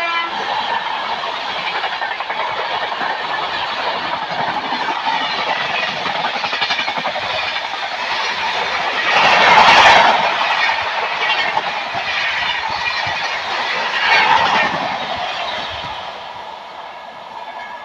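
Indian Railways express train of LHB coaches passing close at speed: a steady rush of wheels on rail with clickety-clack, rising in two louder surges about ten and fourteen seconds in, then fading near the end as the rear of the train goes away.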